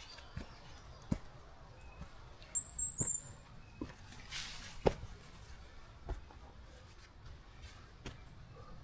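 Footsteps on a forest trail, soft irregular steps about once a second, with a brief high chirp about three seconds in.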